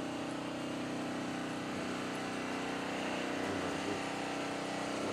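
An engine running steadily, a constant even hum with no change in speed.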